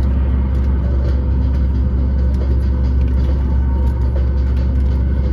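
Cabin noise of a Boeing 737 MAX 8 heard from a seat just behind the wing: a steady, loud, deep rumble of its CFM LEAP-1B engines and airflow, with faint steady tones above it and no change in pitch.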